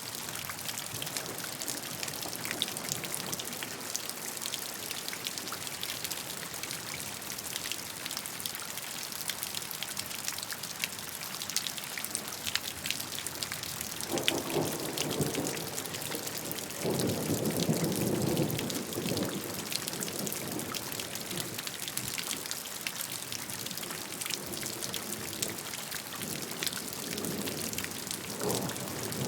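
Steady rainfall: a continuous hiss with many fine drop patters. About halfway through, a deeper rumbling sound swells for a few seconds, then fades.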